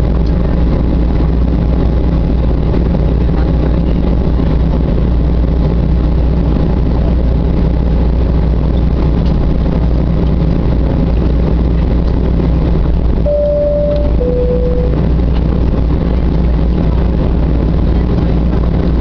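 Steady engine and airflow noise inside the cabin of a Boeing 737-800 airliner. About two-thirds of the way through, the two-tone high-low cabin chime sounds once.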